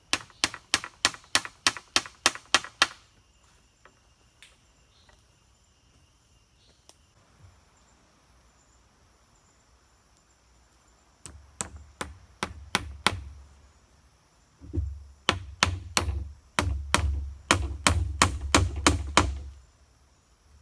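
Wood being chopped with a blade in quick runs of strokes, about four a second: one run at the start, a quiet pause, then two longer runs in the second half with a heavier thud in each stroke.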